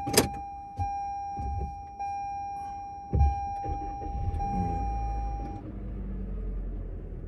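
A car's in-cabin electronic warning chime sounding a steady tone, renewed about every second and a bit, for roughly five and a half seconds, over the low rumble of the car, with a sharp click near the start and a low thump about three seconds in.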